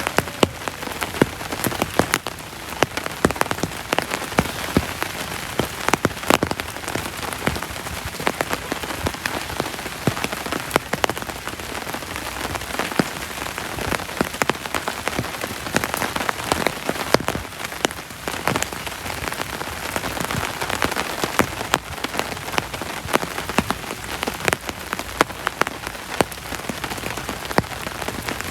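Heavy rain falling steadily, with many sharp, irregular drop impacts on a surface close by.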